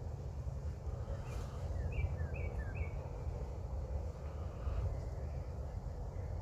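Outdoor ambience: a steady low rumble with a bird calling. About two seconds in, the bird gives a quick run of four short chirps that each slide downward, with a few fainter calls later.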